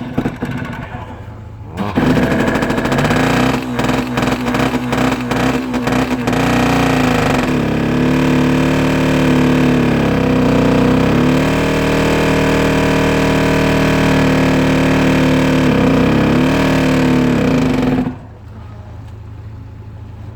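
Cold start at −29 °C of the DZ-143's diesel engine with its pony starting motor running: about two seconds in the sound jumps up loud and ragged, with many knocks as it cranks and catches, then settles into a steady run with a wavering pitch. About two seconds before the end it drops sharply to a quieter steady running.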